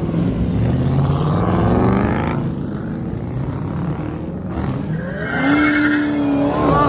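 Car engine revving: the pitch climbs twice in the first two seconds, then eases off. A steady held engine note follows later.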